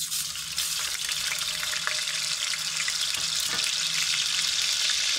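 Ginger-garlic paste hitting hot oil and sizzling steadily, with small crackles; the sizzle starts suddenly as the paste goes in.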